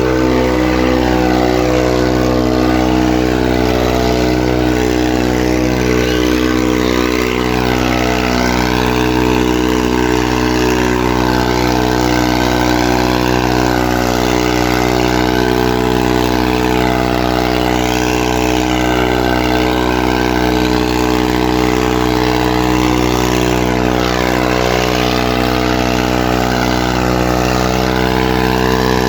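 Farmtrac 45 tractor's three-cylinder diesel engine running at a steady speed, its pitch holding constant.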